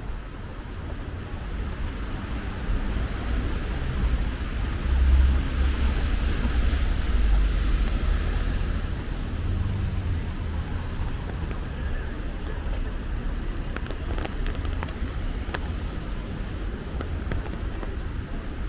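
Rainy street ambience: rain hissing on a wet street with wind rumbling on the microphone. A car's tyres swish past on the wet road near the middle, and a few drips tick near the end.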